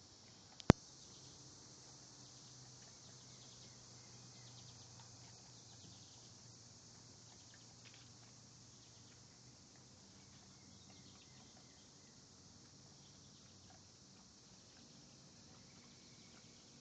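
Summer evening insects, crickets, making a steady high hiss, with one sharp, loud click about a second in.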